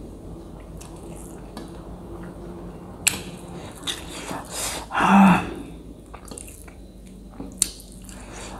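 A person eating rice and pork with her hand, close-miked: wet chewing and lip-smacking mouth sounds with a few sharp clicks, and one short louder mouth sound about five seconds in.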